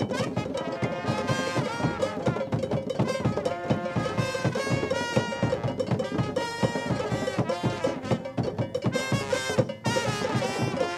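Cuban conga band playing: dense, fast hand drums and percussion, with a horn playing a melody over them.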